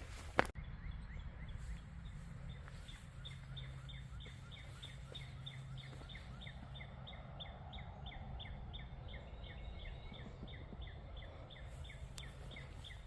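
A bird calling in a long, even series of short downward-sliding notes, about five a second, kept up almost to the end. A sharp click about half a second in.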